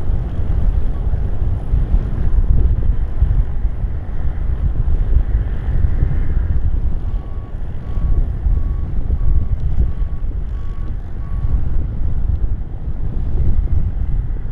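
Strong wind buffeting the microphone: a loud, gusting low rumble. About halfway through, a series of about eight short, evenly spaced beeps at one pitch sounds for a few seconds.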